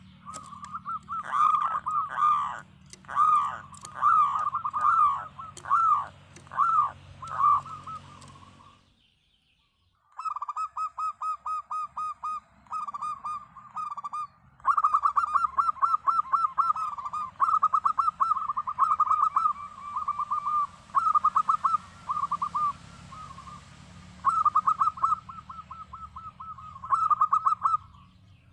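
Zebra dove (local perkutut) singing in full voice: phrase after phrase of quick cooing notes, with a short pause about nine seconds in.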